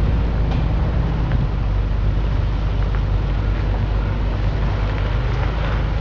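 Jeep engine running steadily as a Jeep with a broken axle is towed by a strap over rocks, with a few faint clicks and knocks.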